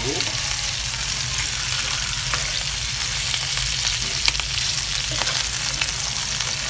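Salmon fillets frying skin-side down in hot oil in a pan, a steady sizzling hiss. A sharp click about four seconds in, as metal tongs touch the pan.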